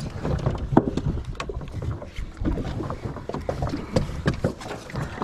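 Small fishing boat adrift: water slapping at the hull under a low rumble, with many scattered short knocks and clicks on board.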